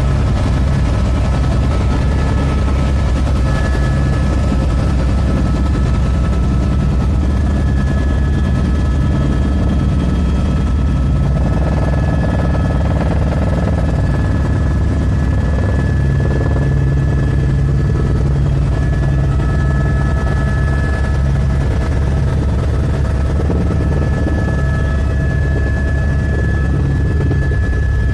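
Helicopter in flight: a steady, loud rumble of rotor and engine with a fast flutter, and a thin, steady high whine over it.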